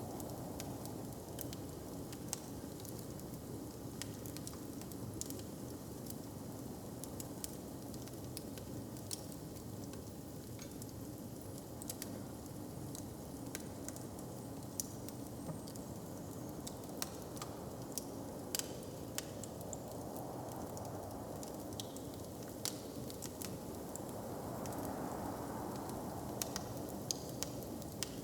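Wood fire crackling: scattered sharp pops and snaps over a steady low hiss of background ambience, which swells softly twice in the second half.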